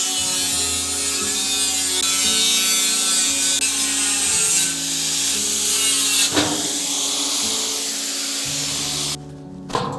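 A saw cutting steadily and continuously, over background music; the cutting stops abruptly about nine seconds in.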